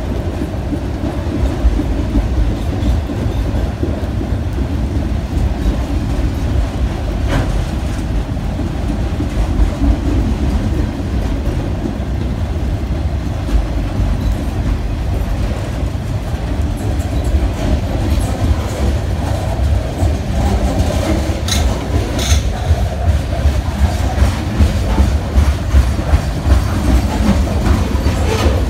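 Freight train cars, mostly autoracks, rolling past close by: a steady, heavy rumble of wheels on the rails with clickety-clack at the rail joints. There are a few sharp knocks, one about a quarter of the way in and a couple about three quarters of the way in.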